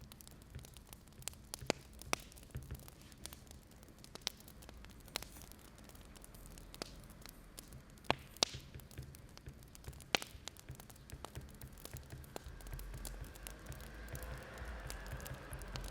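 Wood fire crackling, with sharp irregular pops and snaps over a soft hiss. A low rumble rises in the last few seconds.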